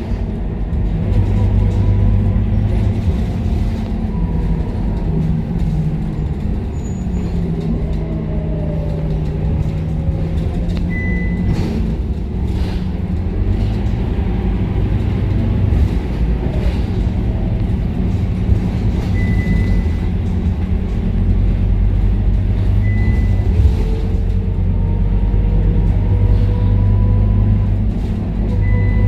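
Scania K230UB city bus's diesel engine heard from inside the bus, its pitch climbing and dropping several times as it pulls away and changes gear. Short high beeps sound a few times.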